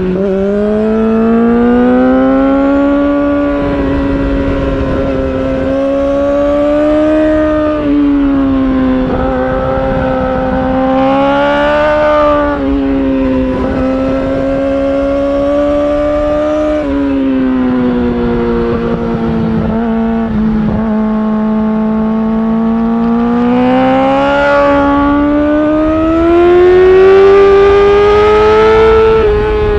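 Yamaha R6 inline-four sportbike engine through an Akrapovic titanium exhaust, under riding load. Its pitch repeatedly rises and falls with the throttle, with a few short dips, and climbs steadily near the end.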